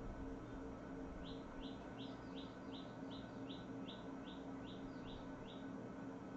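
A bird calling from nearby: a quick run of about a dozen short, high chirps, about three a second, starting about a second in, over a faint steady low hum.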